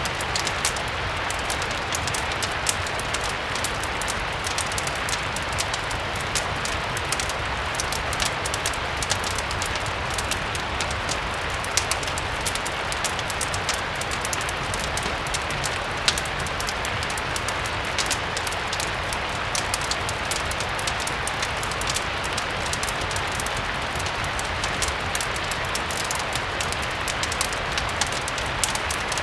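Steady rain ambience, an even hiss, mixed with a crackling fireplace: many small sharp crackles over a constant low rumble.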